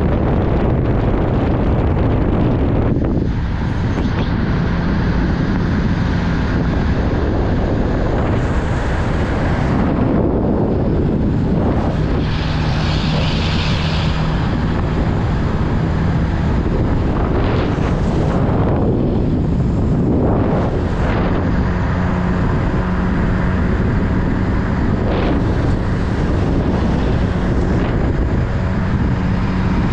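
Off-road jeep engine running under heavy wind rumble on the microphone. A low engine hum comes and goes beneath the noise, which swells and eases every few seconds.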